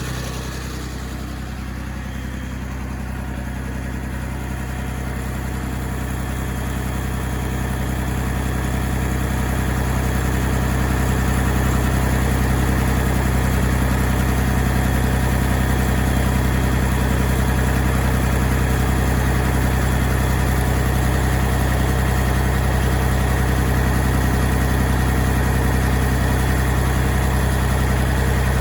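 Engine of a 2004 Reed C50HPS concrete pump running steadily. It grows louder over the first ten seconds or so, then holds even.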